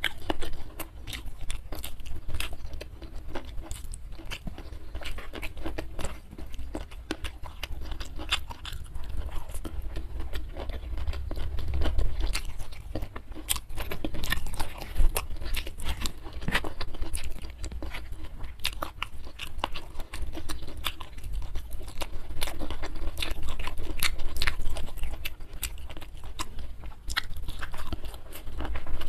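Close-miked chewing and wet mouth sounds of a person eating rice and sweet-spicy chicken feet by hand, with steady sticky clicks and occasional crunchy bites.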